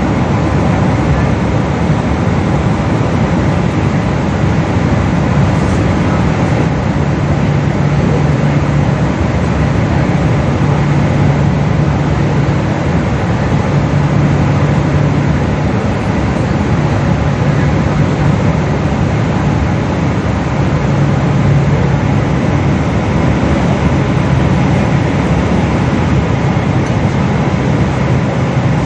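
Boeing 777 cabin noise: a steady drone of jet engines and rushing air, heard from inside the passenger cabin.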